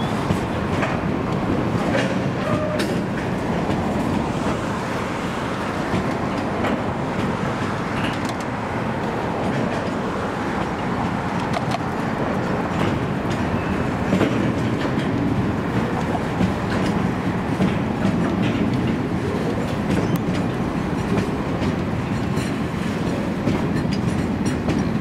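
Freight wagons carrying tank containers rolling past, a steady rumble of wheels on rail with scattered clicking and clatter as they cross rail joints.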